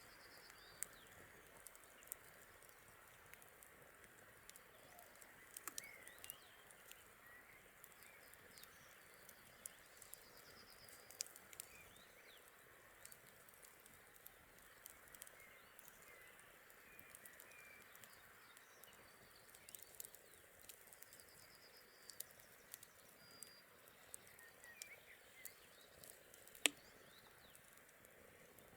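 Wood fire crackling faintly: scattered sharp snaps and pops over a soft hiss, with one louder pop near the end. Small birds chirp and trill faintly in the background.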